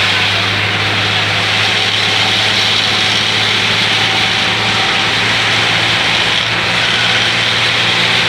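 Inside a moving bus: the engine drones steadily under a constant hiss of heavy rain and tyres on the wet road.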